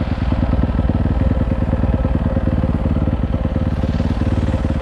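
Dirt bike engine running steadily, without revving.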